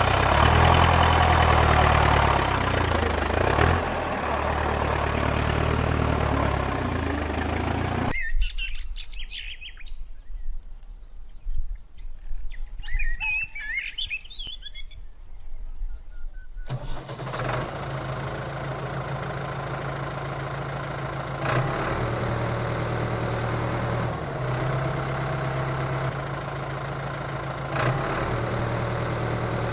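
An engine running with a low hum that wavers in pitch, cutting off suddenly after about eight seconds to birds chirping. About halfway through, a steady engine hum cuts back in and runs on evenly.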